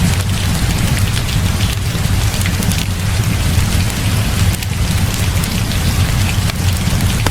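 Heavy rain falling steadily, with a deep continuous low rumble under it and scattered sharp ticks of drops.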